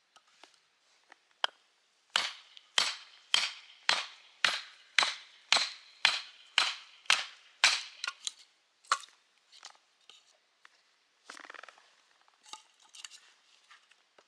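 A run of about eleven hammer blows, roughly two a second, driving a log down onto a log-splitter blade to split firewood, each blow with a short ringing tail. Then a few lighter knocks.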